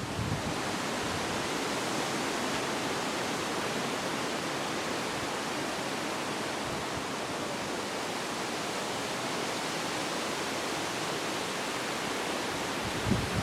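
Wind rushing steadily through leafy trees: an even, unbroken hiss.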